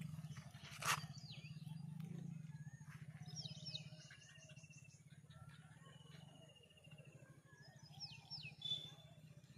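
Birds calling: short whistled notes that sweep downward and a couple of trilled rattles, over a steady low hum. A sharp click about a second in is the loudest sound.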